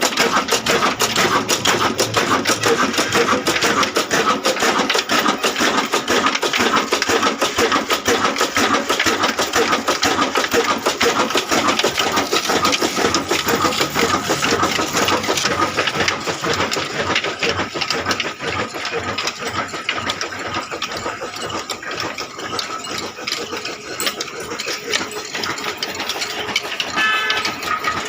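Ruston diesel engine running steadily with a fast mechanical clatter, easing a little in the second half.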